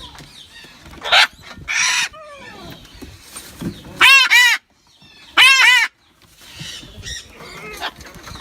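Parrots squawking and screeching in a large aviary. Two loud harsh calls stand out, about four and five and a half seconds in, among fainter screeches.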